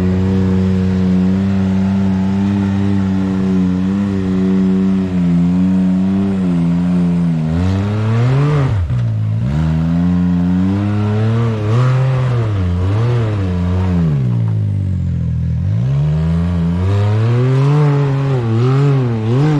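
Off-road vehicle engine running steadily, then from about eight seconds in revving up and down again and again as the throttle is worked on a rocky climb.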